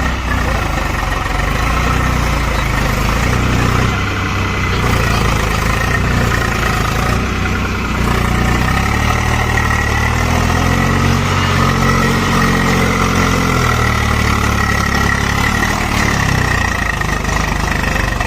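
Tractor diesel engine running, revving up about halfway through and easing back down a few seconds later.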